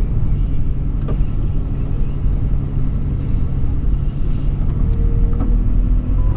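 2013 Toyota 4Runner SR5's V6 engine running steadily while driving, a low even drone with a few faint clicks and knocks.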